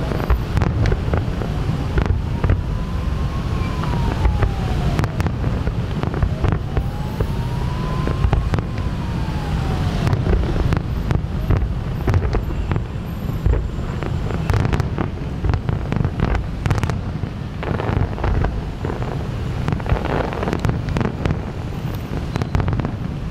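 Fireworks going off in a show, with many bangs and crackles, over heavy wind rumble on the microphone. A slow rising-and-falling wail sounds twice in the first ten seconds.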